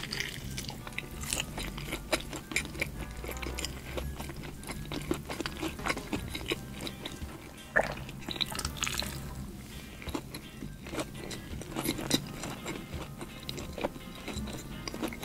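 Close-miked biting and chewing of crispy battered fried chicken, with many small crunches and mouth clicks, over faint background music.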